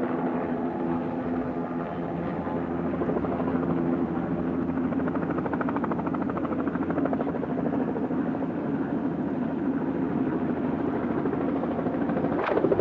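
Police helicopter running steadily, its rotor and engine making a continuous drone with rapid blade pulsing, swelling briefly louder near the end.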